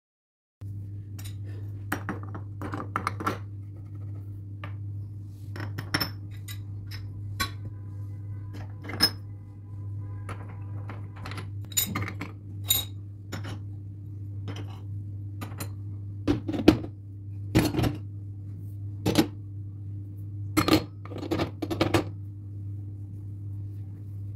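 Dishes and utensils clinking and knocking, in scattered single strikes, over a steady low hum.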